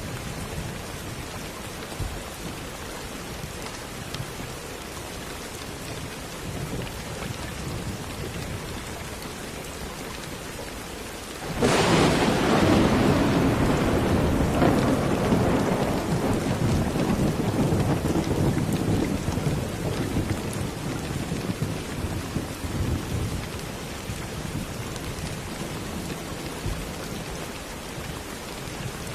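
Steady rain falling, with a sudden clap of thunder about a third of the way through that rumbles on and slowly dies away over the next several seconds.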